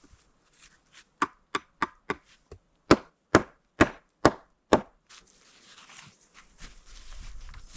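Wood being chopped: a quick run of about ten sharp strikes, roughly three a second, then a rustling hiss from about five seconds in.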